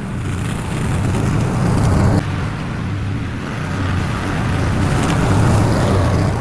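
A small engine running steadily, its level swelling and easing, with an abrupt drop about two seconds in.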